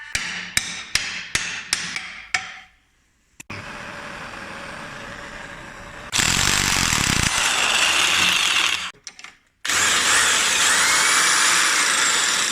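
Work on a brake caliper: about seven sharp taps in the first two seconds, then a power tool running. It is moderate at first, then loud in two long stretches with a brief stop just before ten seconds in.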